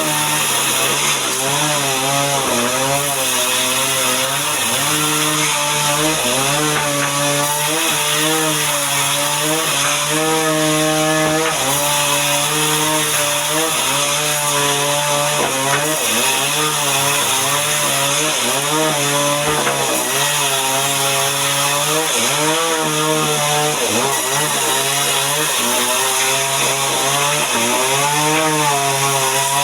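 Chainsaw running under load, ripping mahogany timber into boards. The engine note wavers up and down as the chain bites and eases in the cut.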